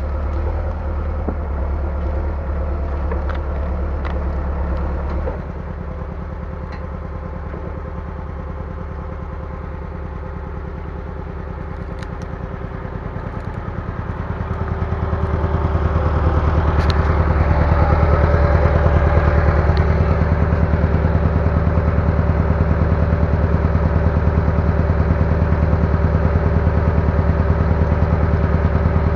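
Bulldozer's diesel engine running steadily, easing off about five seconds in, then revving up and running louder from about fifteen seconds on.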